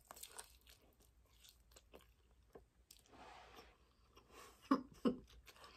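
Faint close-up chewing and smacking while eating a chicken wing: soft wet mouth clicks and crunches, with two louder mouth sounds near the end.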